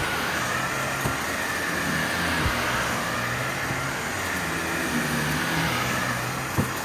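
Vacuum cleaner running steadily with a high motor whine and a low hum, with a few short knocks about 1, 2.5 and 6.5 seconds in.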